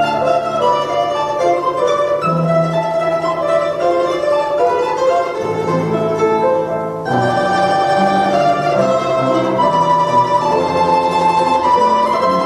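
Instrumental duet of plucked string instruments playing a Russian folk-style tune, with held melody notes over a lower accompanying part. There is a short break in the phrase about seven seconds in.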